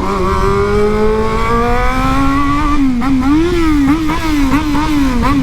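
Yamaha XJ6's inline-four engine running loud under acceleration, its pitch climbing steadily. About three seconds in, the revs start rising and falling quickly, several times a second, until the end.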